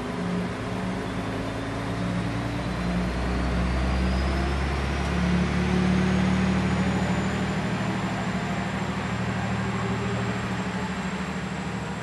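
KiHa 120 diesel railcar running, its diesel engine loudest about halfway through, with a thin high whine that climbs in pitch over the first several seconds and then holds steady.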